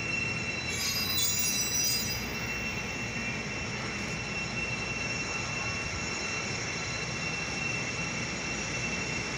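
CTA Bombardier 5000-series 'L' train rolling slowly into the station platform, its wheels rumbling on the rails under a steady high squeal. A brief burst of higher, shriller squealing comes about a second in.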